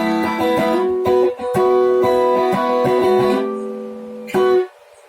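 Jcraft LTX Telecaster-style electric guitar playing chords and single notes that ring on, breaking off abruptly near the end.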